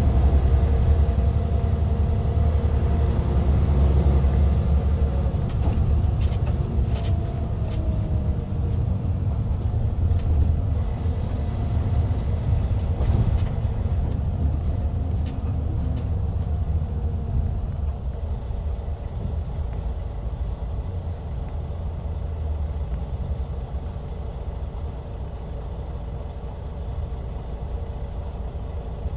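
Hyundai D6CC straight-six diesel of a Hyundai Universe coach running, its pitch falling over the first several seconds as it eases off. The sound grows gradually quieter, with a few sharp clicks in the middle.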